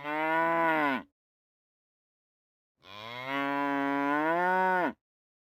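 Cow mooing twice: the end of one long moo, then after a silence a second, longer moo about three seconds in, each dropping in pitch as it ends.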